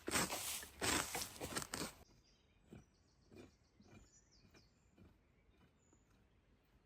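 Dry branches and brush crunching and crackling as they are handled, loud for about two seconds, then cut off suddenly. After that come faint bird chirps and a few soft knocks.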